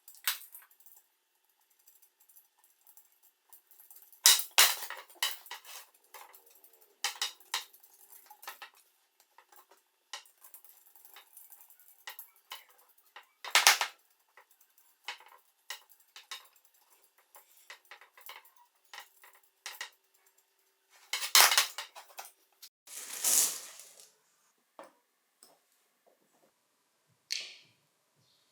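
Metal bicycle parts and tools clinking and knocking against each other in irregular, sharp taps as they are handled. There is a rougher noisy stretch lasting about a second, about two-thirds of the way through.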